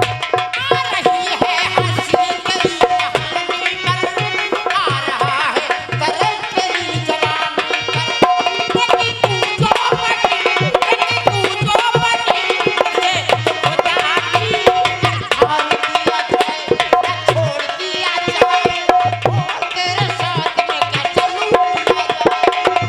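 Instrumental interlude of North Indian folk music: a hand drum plays a steady rhythm under a gliding, ornamented melody.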